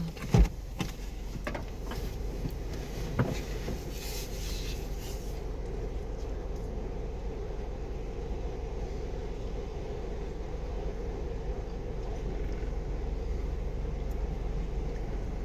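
A vehicle's engine idling, heard from inside the stopped vehicle as a steady low hum, with a few sharp clunks in the first seconds, the loudest about half a second in.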